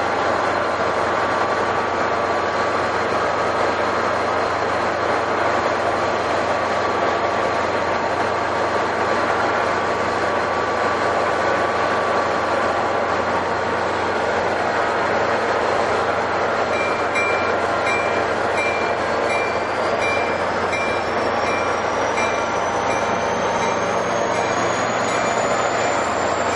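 NJ Transit diesel-hauled commuter train running past at a steady, loud level, with rail and wheel noise. In the last ten seconds a faint high beep repeats about once a second.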